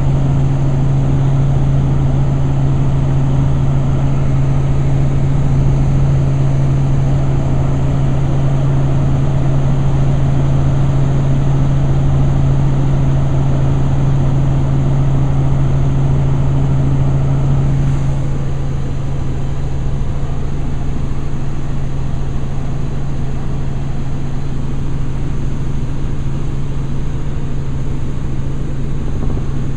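Helicopter in flight heard from inside the cabin: a loud, steady drone with a strong low hum, easing slightly about eighteen seconds in.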